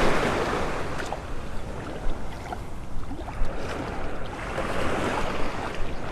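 Waves washing onto a beach, swelling at the start and again near the end, with wind rumbling on the microphone.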